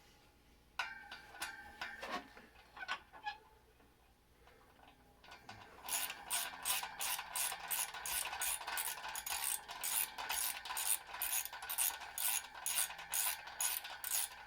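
Hand ratchet wrench clicking in a steady rhythm, about three clicks a second, as the brake rotor bolts are run up snug. Before that, a single metallic clink with a brief ring, then a pause.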